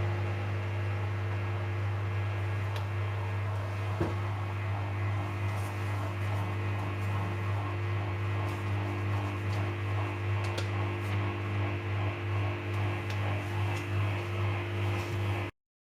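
Samsung Eco Bubble washing machine running its calibration cycle: a steady low motor hum with a few higher steady tones as the empty drum turns, with a few light clicks. The sound cuts off abruptly just before the end.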